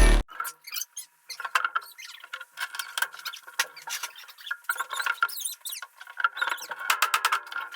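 Irregular light clicks and taps at an uneven pace, over a faint steady hum.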